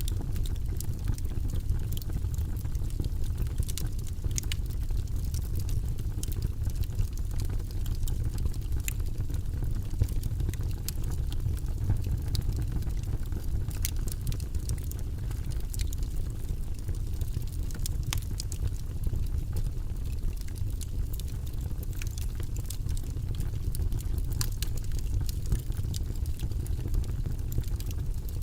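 Wood logs burning in a fireplace: a steady low rumble of the flames with scattered, irregular sharp crackles and pops.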